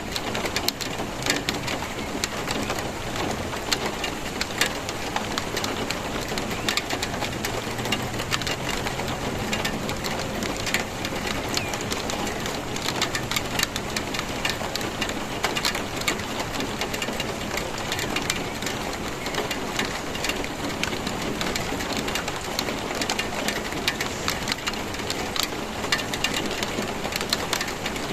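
Steady rain falling, with many individual drops pattering close by on a hard surface.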